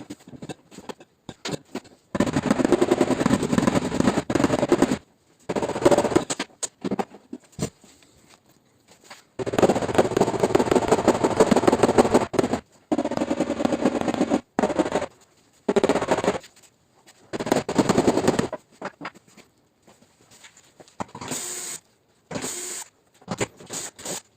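Rapid tapping on the sheet metal of a Toyota RAV4 tailgate during paintless dent repair, in bursts of one to three seconds with short pauses between.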